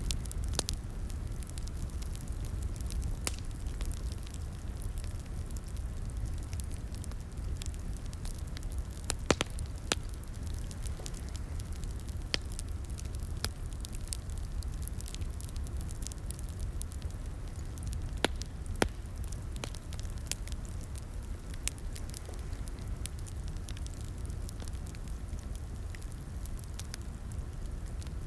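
Wood fire crackling in a fireplace: a steady low rumble of flames with scattered sharp pops and snaps every few seconds.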